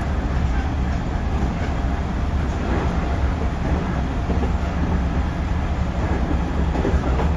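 JR Central 311 series electric multiple unit running at speed: a steady low rumble of wheels on the rails mixed with running noise, with no pauses or sudden events.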